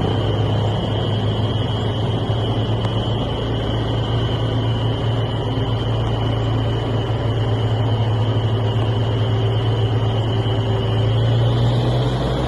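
Truck engine running steadily under load, with a steady high whine above the engine note; the engine note swells and rises a little near the end.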